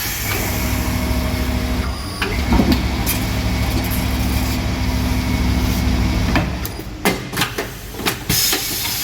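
Tyre-changing machine's electric motor running with a steady low hum for about six seconds, then stopping, followed by several sharp clicks and knocks.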